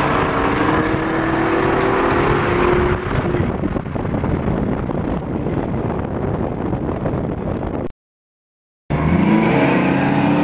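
Car engine pulling hard under acceleration, its pitch climbing for about three seconds, then giving way to a steady rushing noise. About two-thirds of the way through, the sound cuts out completely for about a second, then the engine comes back.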